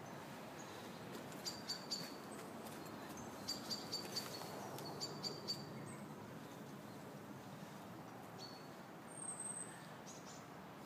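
Small bird chirping: short high chirps in quick runs of three or four, with a few single chirps later, over a steady background hiss.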